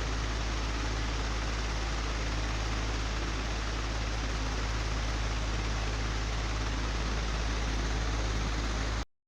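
An old electric fan, billed as broken, running steadily: an even whir with a deep, constant low hum underneath. It stops abruptly just before the end.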